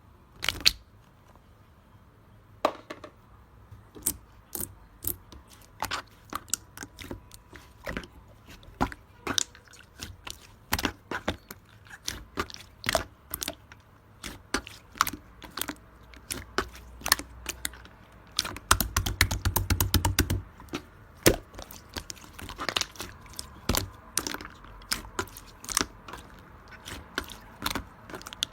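Keys clicking on a computer keyboard in slow, uneven single strokes, with a quick run of rapid typing about two-thirds of the way through.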